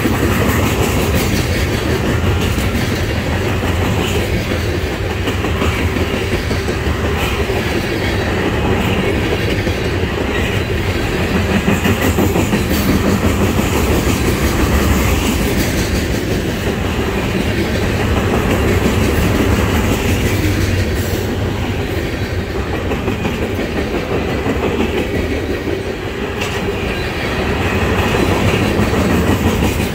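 A freight train of loaded trash-container flatcars rolling past close by: a steady rumble of steel wheels on the rails, with wheels clicking over the rail joints.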